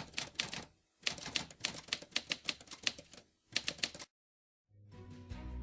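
Rapid typewriter key clacks in quick runs, about seven strikes a second, with short pauses between the runs. They stop about four seconds in, and music starts shortly after.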